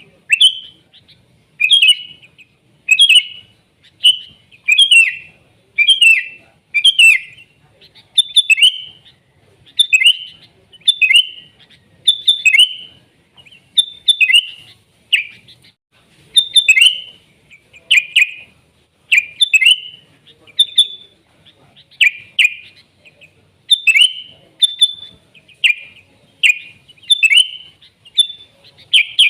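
Sooty-headed bulbul (kutilang) singing: short, loud, quick phrases repeated steadily, about one every second.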